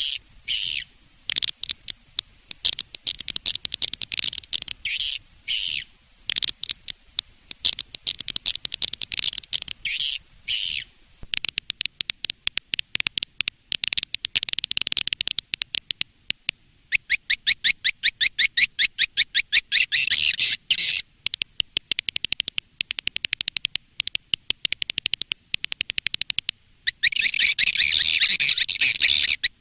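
Swiftlets twittering: bursts of fast, high chirping trills that stop and start every second or two, packing into longer runs in the second half. This is a swiftlet calling recording of the kind played to lure the birds to nest houses.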